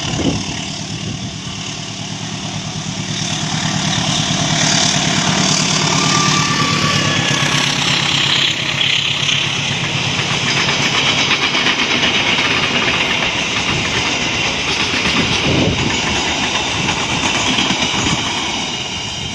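A train passing close by: a loud, steady rumble and rattle of wheels on the rails. A low engine drone is heard for the first several seconds.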